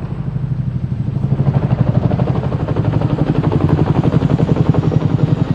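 Two-stroke dirt bike engine, a KTM 300, running at low revs with a rapid, even pulse, getting a little louder in the first couple of seconds.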